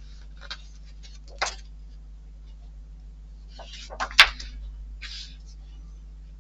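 A few light clicks and taps of small model-kit parts being handled on a work table, the sharpest about four seconds in, with brief soft rustling, over a low steady electrical hum.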